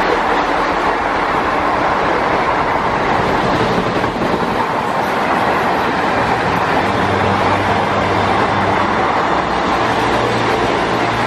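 Train running on the rails: a steady, loud rumble throughout, with a faint low hum.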